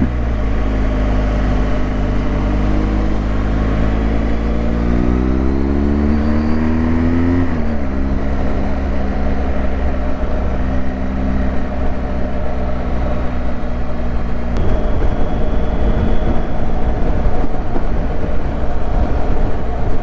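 Motorcycle engine pulling up through the revs for several seconds, its pitch rising steadily, then dropping sharply about seven and a half seconds in before settling to a steady cruise. Wind rush grows louder over the last third.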